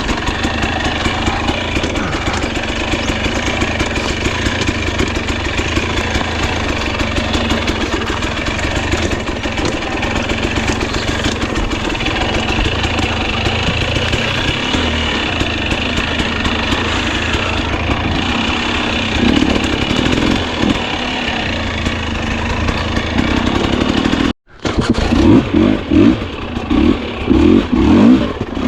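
Husqvarna TE250i two-stroke dirt bike engine running steadily at low revs on a slow technical trail. About 24 s in the sound cuts out for a moment, then comes back with uneven bursts of throttle.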